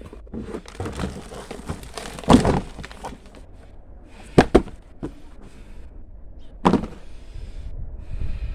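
A potato tub being tipped out and its soil dug through by hand: scraping and rustling of soil, with sharp knocks about two seconds in, a quick pair at about four and a half seconds, and one more near seven seconds.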